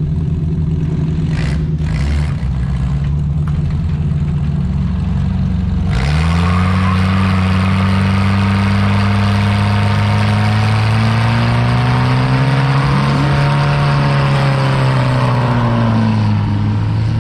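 1990 Chevrolet S10's 2.5-litre four-cylinder engine running at a steady idle, then about six seconds in revved up hard and held high for about ten seconds under a broad hiss, dropping back near the end: a burnout.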